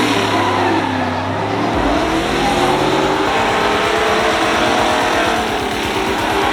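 A truck's engine held at high revs during a burnout, with the rear tyres spinning against the pavement. The sound is loud and steady, and the low engine note shifts about two seconds in.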